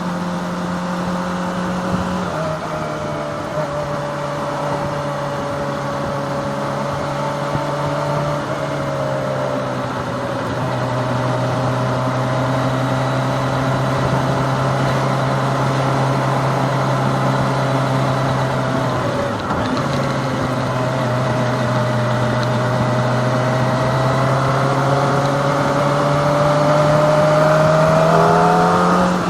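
Kawasaki Ninja ZX-25R's 250 cc inline-four engine running at steady road speed over a constant rush of noise. The revs step down a couple of times and dip briefly past the middle, then climb steadily over the last few seconds.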